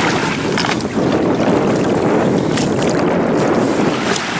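Wind buffeting the microphone over the wash of waves in the shallows: a loud, steady rough rumble with a few faint clicks.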